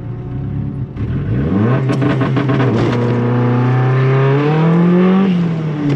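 Turbocharged 1.8-litre 20-valve four-cylinder engine of a Mk2 Golf revving: the pitch jumps up sharply about a second in and holds steady with a crackle, then climbs higher and drops back near the end.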